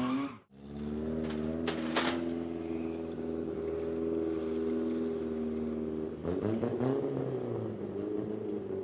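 BMW 3 Series engine running at a steady, even speed as the car is driven balanced on two wheels. The sound cuts out briefly just after the start. There are a few sharp clicks between one and two seconds in, and the revs rise and fall briefly about six seconds in.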